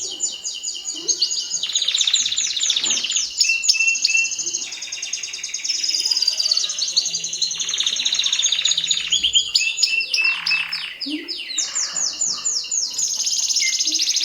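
Mosaic canary singing a continuous song of fast trills, each phrase a rapid run of repeated falling notes that changes to a new phrase every second or two.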